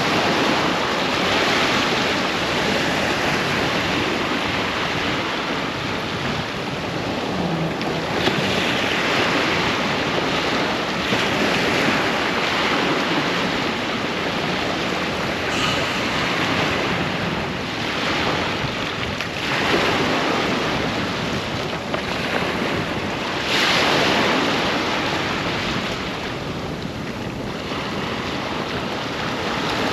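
Ocean waves breaking on a sandy beach, a steady wash of surf with a louder surge every few seconds, some wind buffeting the microphone.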